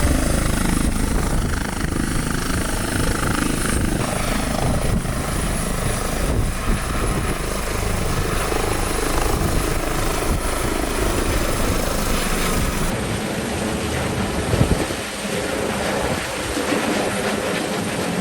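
Helicopter running, its rotor and turbine noise steady and continuous, with a slight change in sound about two-thirds of the way through.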